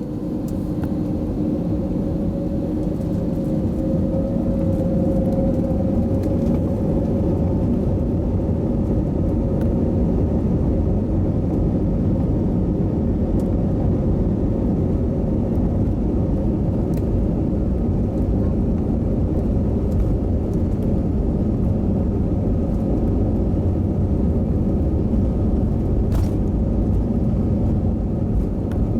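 Airbus A320 jet engines at takeoff power, heard from inside the passenger cabin. The sound builds over the first few seconds into a steady, loud rumble with a hum. It is the takeoff roll and climb-out.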